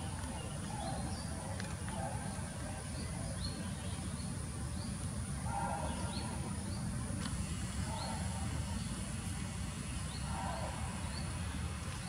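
Outdoor woodland ambience: a small bird repeats short rising chirps every second or two, often in pairs, over a steady high-pitched insect whine and a low background rumble.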